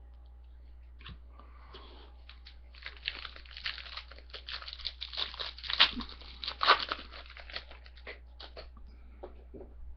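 Foil wrapper of a trading-card pack being torn open and crinkled: a dense run of crackling from about three seconds in to about eight seconds, with scattered small clicks before and after.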